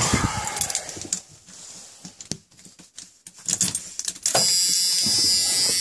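Keys jangling and clicking in a van's ignition, then about four seconds in a steady electric buzz comes on suddenly as the ignition is switched on before a cold start of the 6.9 diesel.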